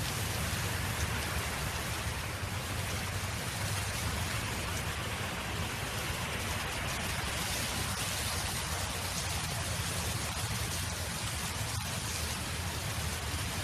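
Steady wind blowing across a field: an even rushing hiss with a low rumble underneath.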